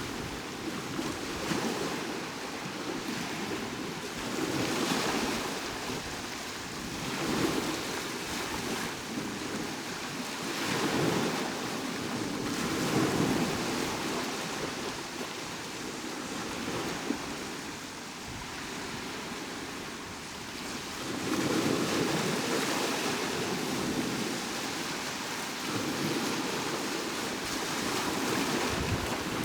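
Sea waves breaking and washing up the shore, the surf swelling and easing every few seconds.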